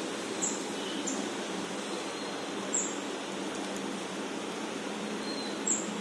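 Three brief, high-pitched bird chirps about two and a half seconds apart over a steady background hiss.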